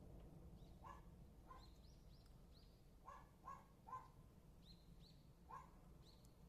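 Faint, short animal calls repeated in small groups, some lower-pitched and some higher, over a faint low steady hum.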